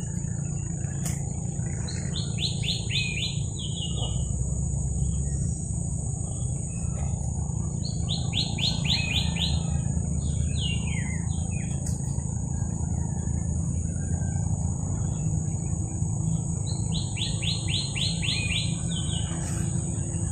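A songbird sings a short phrase three times, each a quick run of about eight high notes, several seconds apart. Under it run a steady high-pitched drone and a low rumble.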